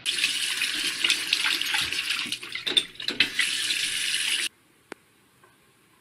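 Water from a bathroom sink faucet running and splashing into the basin. About halfway through, the splashing breaks up unevenly for a second, then the sound cuts off abruptly.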